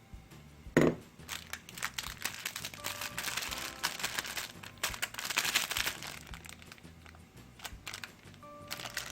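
Close-miked eating of cold soy-milk ramyeon noodles: slurping and wet chewing. A loud sudden sound comes just under a second in, followed by a dense run of wet clicks and slurps that thins out after about six seconds.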